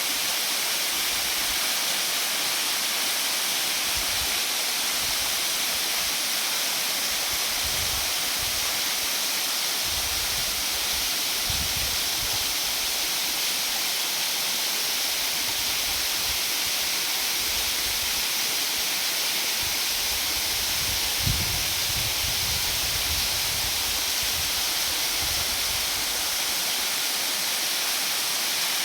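Jhinkra waterfall's falling water: a steady, even rushing hiss, with low rumbles coming and going underneath.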